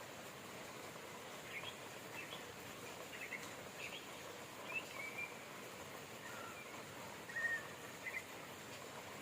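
Steady rain with birds chirping on and off over it: short chirps and brief whistled notes, a few loud ones about seven and a half seconds in.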